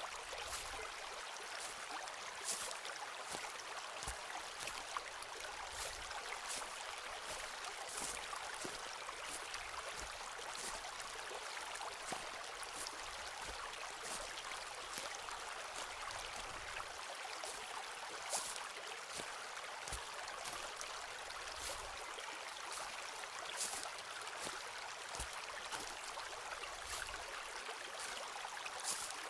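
A forest stream running steadily, with scattered light high clicks and crackles over the rushing water.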